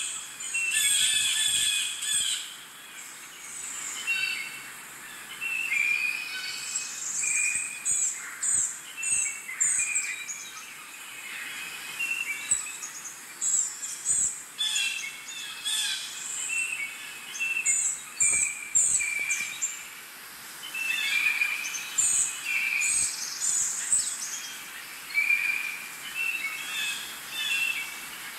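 Birds singing and calling, many short chirps and whistles at several pitches overlapping one another.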